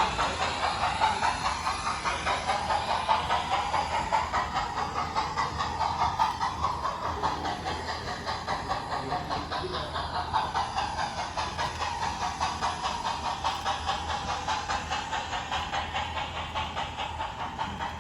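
Model train running on the layout: a rapid, even clatter of wheels over the track, with a motor whine that rises and falls as the train moves.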